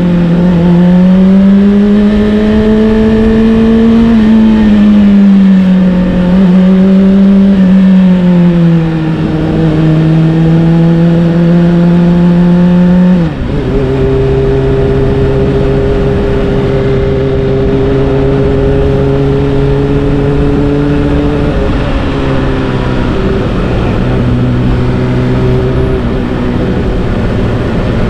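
Honda CBR600RR's inline-four engine through an Akrapovic exhaust while riding. The engine note rises and falls with the throttle, drops sharply about halfway through at an upshift, then holds a steady cruising pitch, with another small drop near the end.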